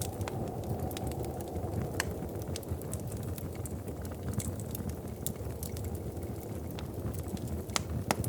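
Wood fire in a fireplace crackling, with frequent sharp pops scattered over a steady low rumble; a few louder pops about two seconds in and near the end.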